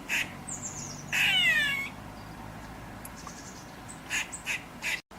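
Squirrel calls: short high-pitched squeaky chirps, and about a second in a louder squeal that falls in pitch over most of a second, then more chirps near the end.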